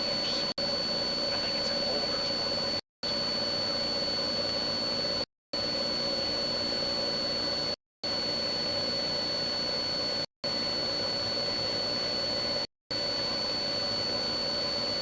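Steady road noise of a police car under way, heard from inside: engine, tyres and wind, with a thin high tone running through it. The recording drops out to silence for a split second about every two and a half seconds.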